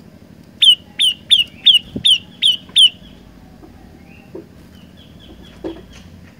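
Olive-backed tailorbird calling: a quick run of seven sharp, loud, high notes, about three a second, each sliding down in pitch, followed by a few fainter high notes.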